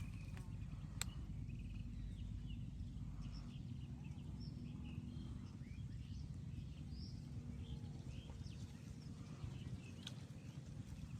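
Steady low rumble with many short, faint bird chirps scattered through it, and a sharp click about a second in and again near the end.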